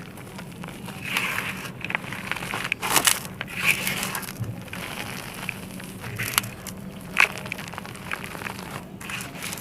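Brittle dry lumps being crushed and crumbled: irregular crunches and sharp crackles, some louder than others, over a faint steady low hum.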